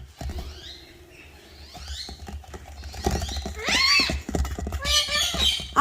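Pet parrots calling: a few thin whistled glides, then a louder arching squawk about four seconds in, over scattered light taps and clicks.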